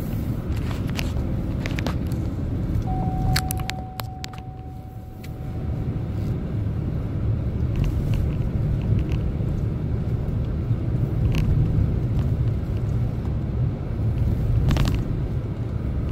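Chevrolet Silverado pickup truck driving, heard from inside the cab: a steady low engine and road rumble that eases briefly about four seconds in. A few sharp clicks and a short steady tone of about three seconds come through on top.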